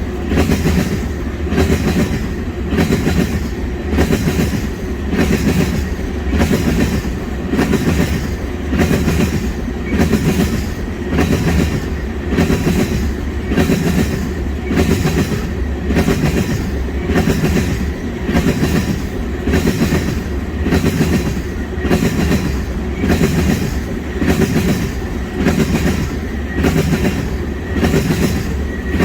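Freight train of petroleum tank wagons rolling along the track, its wheels clattering over the rail joints in a steady rhythm of about one beat a second over a continuous rumble.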